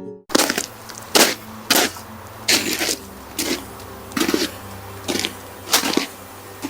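Footsteps crunching through crusty spring snow, about ten steps at an uneven walking pace.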